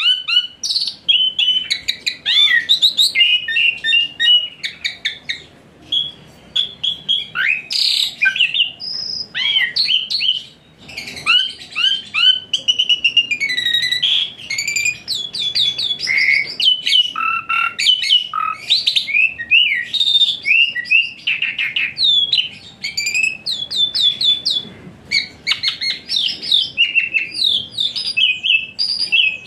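A songbird singing a rapid, varied song of chirps, trills and whistled sweeps, almost without pause.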